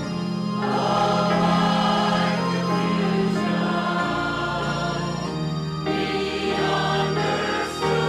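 A church congregation singing a hymn together in sustained, held phrases, with short breaks between lines.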